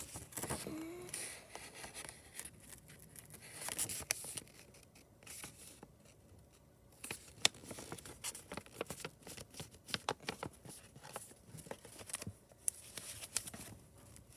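Paper rustling and crackling as a folded paper airplane is folded in half and its creases pressed down, with irregular scrapes and small sharp clicks.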